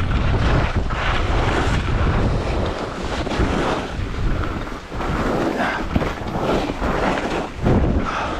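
Wind buffeting a GoPro's microphone during a ski descent: a loud, gusting rumble that swells and dips, with no pitch to it.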